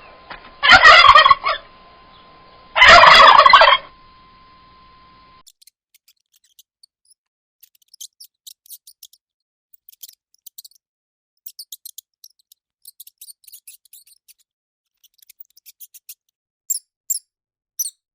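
Wild turkey gobbling twice in loud bursts about two seconds apart. It is followed by a long run of faint, very high-pitched quick squeaks that grow louder near the end.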